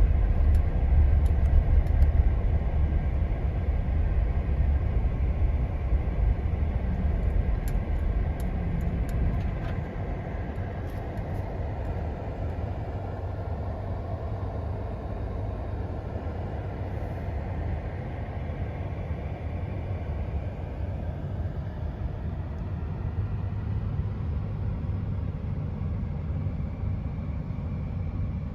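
A Jeep being driven on snow-covered roads: a steady low rumble of engine and tyres that drops to a quieter level about ten seconds in, with a few faint ticks early on.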